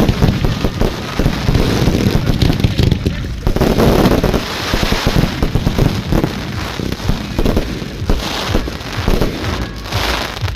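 Fireworks going off in quick succession: a continuous barrage of bangs and crackling.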